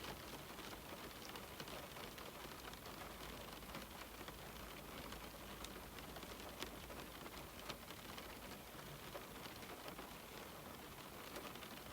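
Steady rain falling on window glass: an even hiss scattered with small ticks of individual drops, one of them a little louder about six and a half seconds in.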